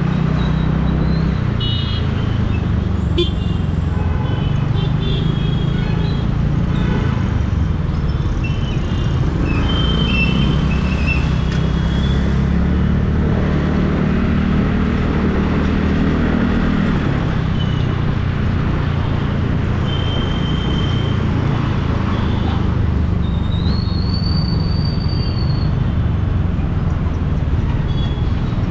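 Scooter engine running steadily at riding speed in city traffic, with other vehicles' horns beeping several times and one longer horn note about four-fifths of the way through.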